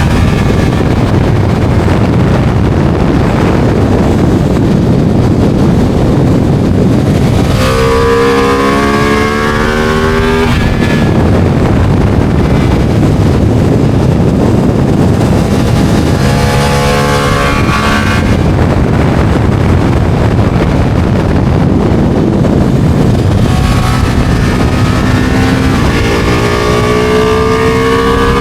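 Ducati motorcycle engine under hard acceleration, its pitch climbing in strong runs about a third of the way in, near the middle and toward the end. Heavy wind rush on the microphone runs throughout.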